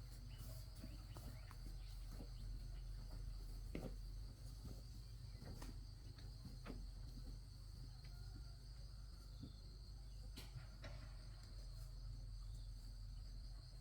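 Crickets chirring in a steady, high, even drone over a low background hum, with a few light clicks and taps scattered through.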